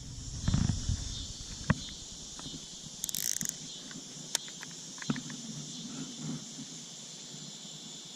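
Steady high-pitched chorus of insects, with scattered knocks and clicks and a brief fast ticking about three seconds in.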